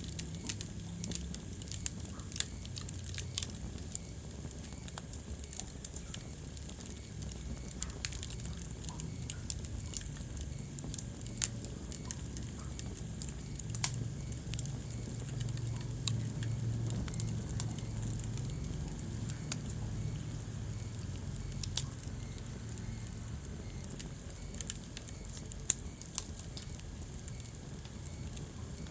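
Wood fire crackling in a fireplace: a steady low rumble of burning with frequent small crackles and a few louder, sharp pops scattered throughout.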